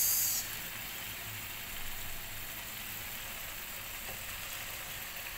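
Leafy greens sizzling in a hot wok. A loud burst of sizzle, from light soy sauce just poured into the pan, dies down about half a second in and gives way to a steady, fainter sizzle.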